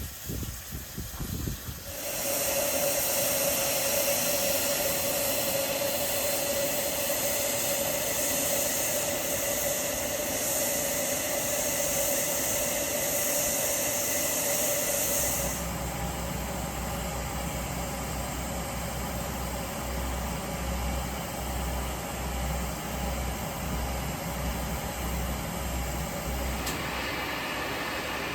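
Steam locomotive letting off steam: a loud, steady hiss with a steady tone in it. About halfway through it gives way to a quieter hiss over a low throbbing hum.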